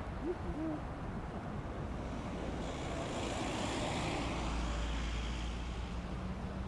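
Jet airliner on approach to land, a broad rushing engine noise that swells about three seconds in and then fades, with a low rumble underneath.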